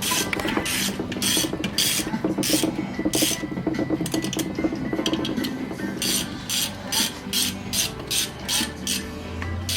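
A hand ratchet wrench being worked back and forth, each stroke giving a short burst of clicking. The strokes come unevenly at first, then settle into a quick rhythm of about three a second in the second half.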